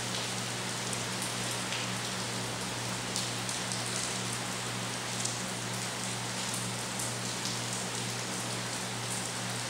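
Steady rain falling, with separate drop hits now and then, over a steady low hum.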